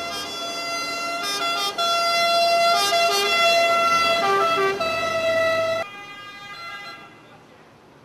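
Emergency vehicle siren sounding loudly close by, its tone switching between pitches, then cutting off sharply about six seconds in and leaving a fading tail.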